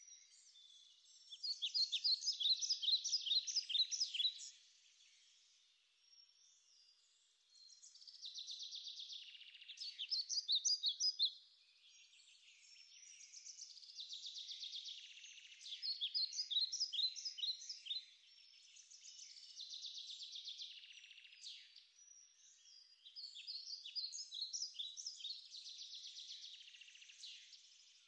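A songbird singing: phrases of quick, high notes, each a few seconds long, repeated every few seconds with short pauses between.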